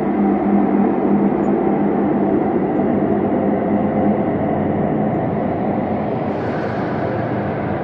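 Ambient space drone: a steady synthesized rumbling hum with sustained low tones under a hissing wash. A brighter hiss swells briefly about six seconds in.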